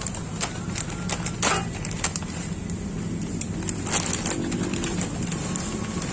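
Yamaha Jupiter MX 135's single-cylinder four-stroke engine idling steadily through an aftermarket R9 Misano exhaust fitted with a dB killer, with scattered sharp clicks over the low rumble.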